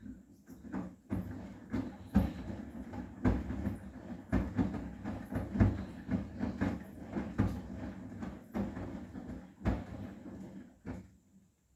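Arçelik 9120M washing machine drum turning with cushions inside, a low rumble broken by irregular thumps and clunks as the load falls in the drum. It stops shortly before the end.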